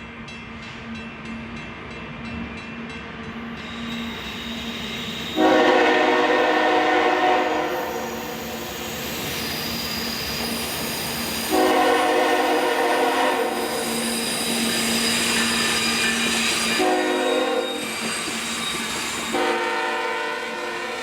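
Locomotive horn sounding the grade-crossing signal, two long blasts, a short one and a long one, over the rumble of the approaching train.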